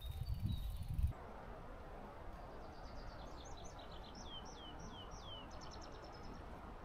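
A songbird sings one phrase of high whistled notes falling in pitch, ending in a quick run of short notes, over a quiet outdoor background. In the first second a louder low rumble cuts off abruptly.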